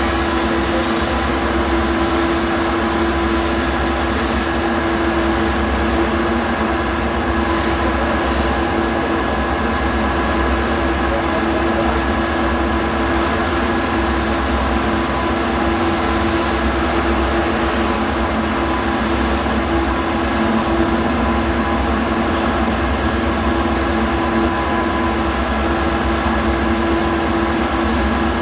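Steady mechanical hum with a constant low drone and a dense hiss over it, unchanging throughout.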